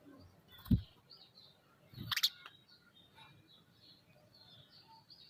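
Birds chirping faintly and repeatedly, with a low thump under a second in and a louder, sharper sound about two seconds in.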